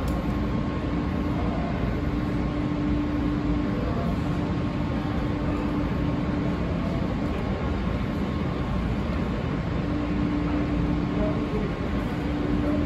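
Steady rumbling machinery noise from idling rail equipment at an underground station platform, with a low hum that fades out for several seconds mid-way and returns.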